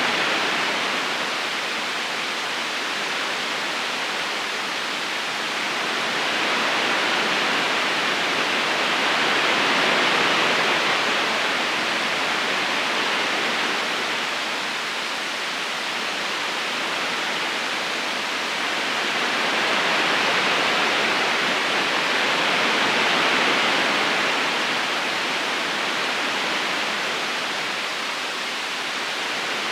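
Steady rushing of a flowing river, a dense wash of water noise that swells and eases slowly every ten seconds or so.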